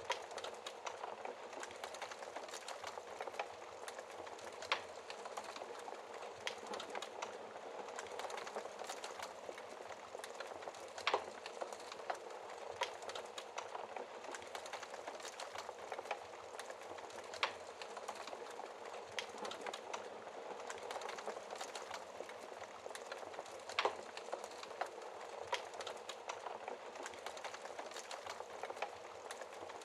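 Wood fire burning in a fireplace, crackling and popping: a steady low hiss of flames with many small irregular crackles and a louder pop every few seconds.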